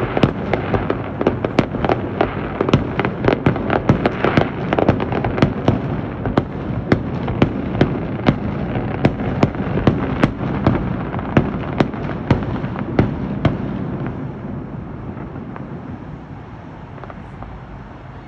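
Fireworks display going off: a rapid string of sharp bangs and crackles, dense at first, then about two a second. They stop about thirteen seconds in, leaving a fading rumble.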